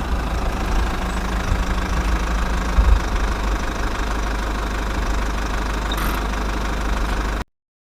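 Mini diesel engine running steadily, deepest in the low end, cutting off abruptly near the end.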